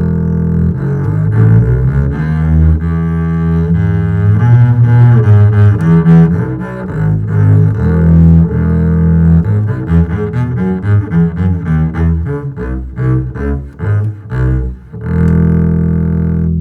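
Double bass played arco with a bow: a melodic passage of sustained low notes, quicker in the middle, ending on a long held note.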